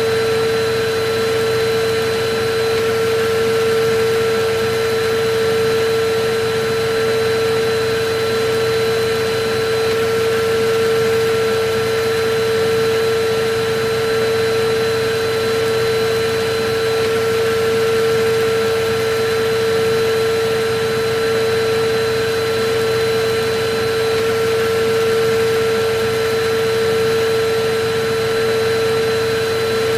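Electric vacuum cleaner running steadily: an even hiss with a constant humming tone over it.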